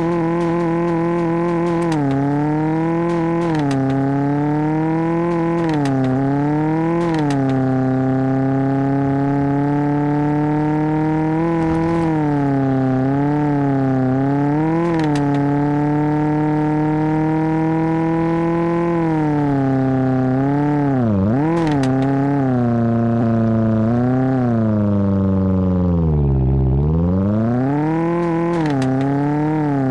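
Tofaş car engine running under load, its pitch climbing and falling as the revs change. It dips and rises several times, with a long slow climb through the middle and two sharp drops near the end, with scattered clicks over it.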